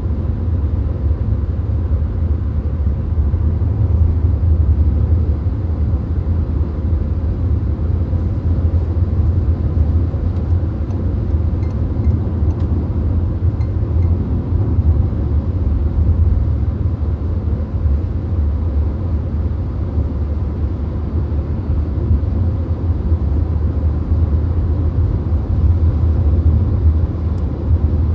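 Steady low road and engine rumble heard inside a VW Golf's cabin cruising at motorway speed, a deep even drone with tyre and wind hiss above it.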